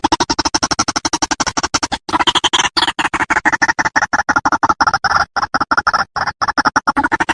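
White-breasted waterhen (ruak-ruak) calling: a fast, stuttering run of harsh repeated notes, about nine a second, with a brief break about two seconds in.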